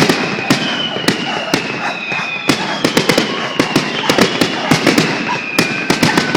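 Fireworks display finale: a rapid, irregular string of sharp bangs and crackles, with thin high whistling tones that fall slightly in pitch running under them.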